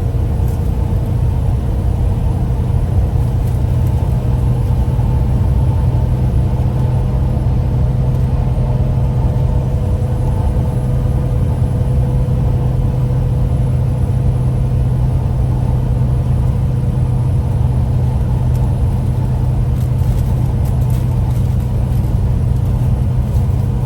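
Truck running, heard from inside the cab: a steady, unchanging low drone with a constant hum over it.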